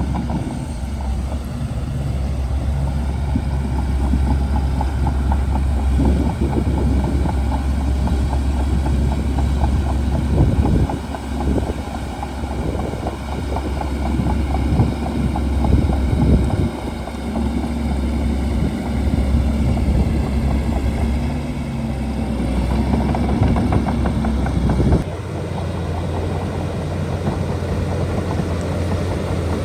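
Diesel engine of a Shantui DH17C2 crawler bulldozer running steadily, with scattered knocks; the engine note shifts abruptly near the end.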